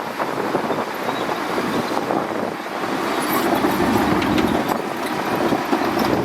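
Shantui DH17C2 bulldozer running, a continuous heavy machine rumble with scattered clicks and knocks, a little louder around the middle.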